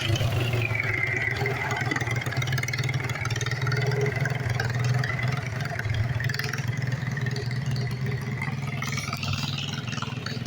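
Garden tractor's small engine running steadily, with a high whine above the engine note that drops just after the start and climbs again near the end.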